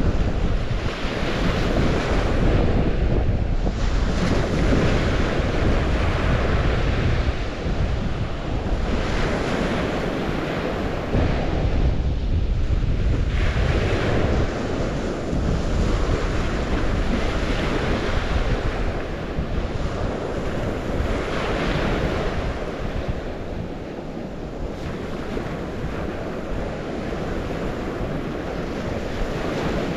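Waves washing on the St. Lawrence shore, surging and falling back every few seconds, with wind rumbling on the microphone.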